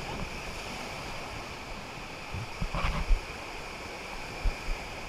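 Steady rush of river water around a drifting raft, with a few low thumps about halfway through and again near the end.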